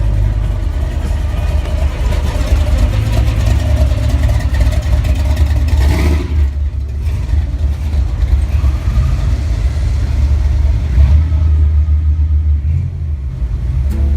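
Classic American car engines running with a deep, low exhaust note and some revving, with a brief burst of noise about six seconds in.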